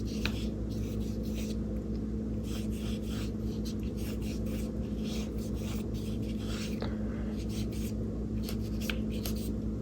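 Paintbrush stroking acrylic paint onto gesso-primed mixed media paper: irregular short scratchy strokes over a steady low hum.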